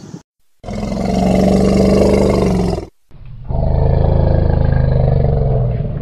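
African elephant giving two long, low, loud roaring calls: the first lasts about two seconds, and the second, about three and a half seconds long, follows after a brief pause.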